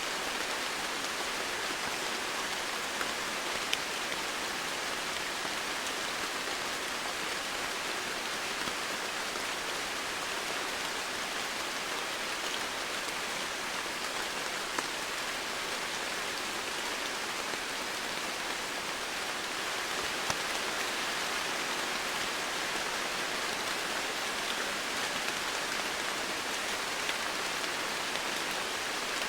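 Steady rain falling, an even wash of noise with a few louder single drop taps scattered through it.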